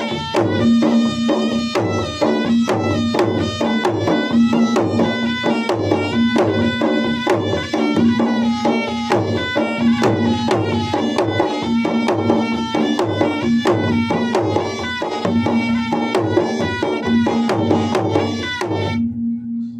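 Traditional Makassar–Bugis gendang drums played for a wedding, beaten in a fast, dense rhythm over a steady ringing tone. The drumming stops near the end, leaving only the tone.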